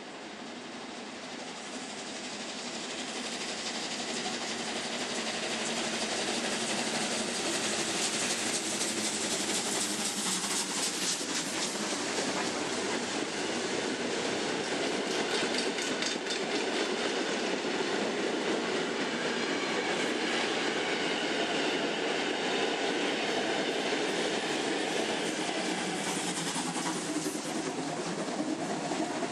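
A train running on the track, growing louder over the first several seconds and then holding steady, with wheels clattering over rail joints in the middle stretch.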